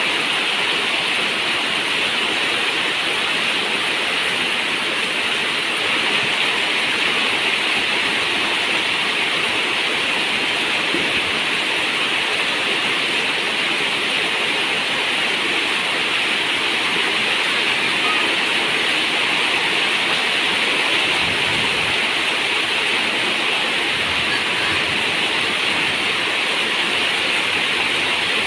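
Steady rain falling on a zinc roof, a dense, even hiss with no breaks.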